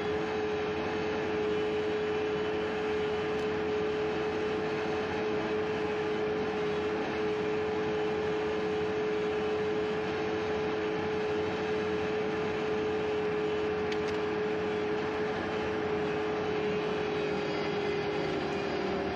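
Skid steer engine running steadily at constant speed, a continuous mechanical drone with a steady hum, settling slightly lower in pitch near the end.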